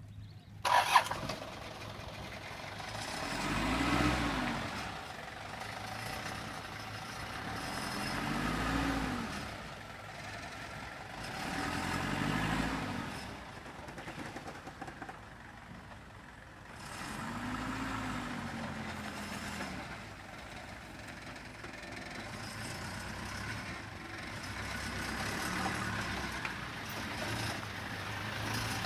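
A bogged-down vehicle's engine revving in repeated surges, its pitch rising and falling four times strongly and once more weakly, as it tries to pull free. A sharp clunk sounds about a second in.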